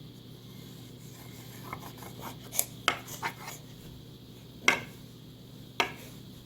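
Crayon scribbling on paper in a run of short scratchy strokes, followed by two sharp taps a second or so apart.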